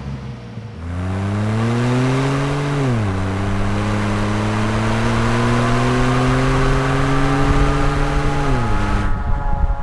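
A 3.5L EcoBoost twin-turbo V6 in a Ford F-150 accelerating through a Magnaflow Street Series single side-exit exhaust. The exhaust note rises steadily, falls sharply as the automatic shifts up about three seconds in, climbs again, and falls once more near the end.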